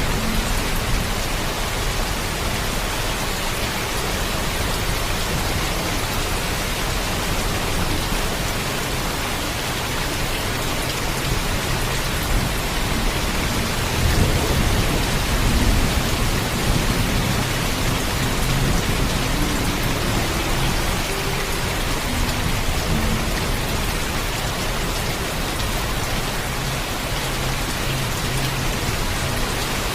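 Heavy rain falling steadily, with a low rumble of thunder swelling about halfway through.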